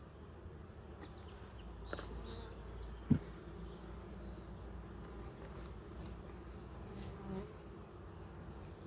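Honeybees buzzing around an opened hive in a steady hum, with a sharp knock about three seconds in.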